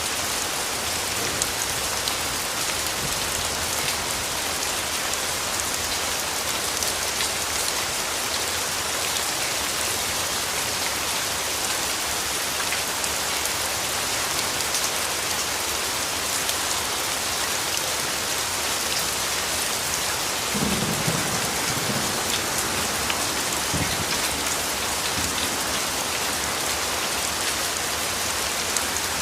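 Steady, even rainfall, with a few low rumbles of distant thunder about two-thirds of the way through.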